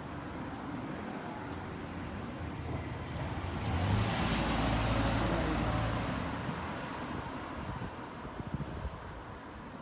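A motor vehicle drives past close by. Its sound swells, peaks about four to six seconds in, then fades away.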